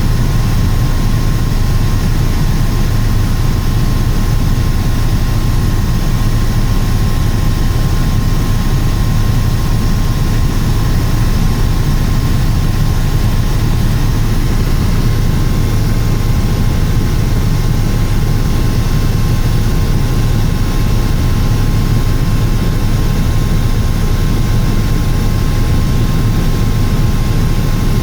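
Helicopter in flight: a loud, steady drone of engine and rotor, with a deep hum and a thin steady whine above it.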